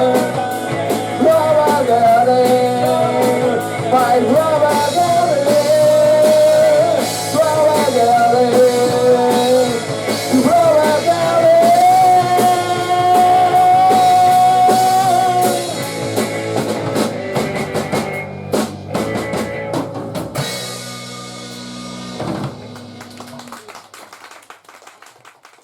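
Live rock band with singing, drums and guitar finishing a song: the singer holds a long note, then the band closes with a series of drum and cymbal hits that ring out and fade away near the end.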